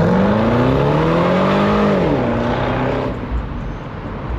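Car engine revving hard. Its pitch climbs steadily for about two seconds, drops back sharply, then fades away after about three seconds.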